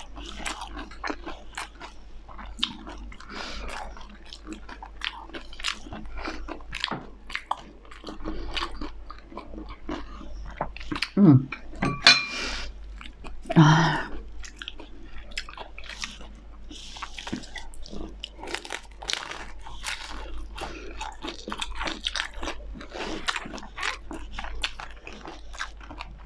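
Close-up crunching and chewing of a deep-fried spring roll's crispy wrapper, a dense run of irregular crackly bites and chews, with a few louder noises about halfway through.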